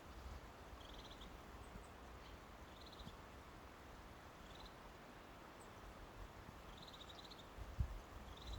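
Small songbirds giving short, rapid trilled calls, six or so spaced a second or two apart, over a low outdoor rumble, with a single low thump near the end.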